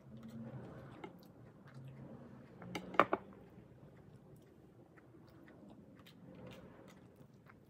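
A person chewing food with soft, close mouth sounds and faint scattered ticks, eating rice and meat by hand. A brief burst of sharp clicks about three seconds in is the loudest moment.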